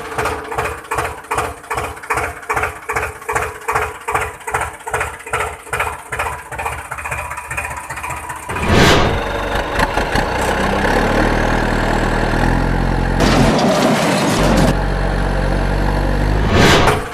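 Vehicle engine sounds: an engine chugging evenly at about three beats a second, then a swish about nine seconds in and a steadier engine drone, with another swish near the end.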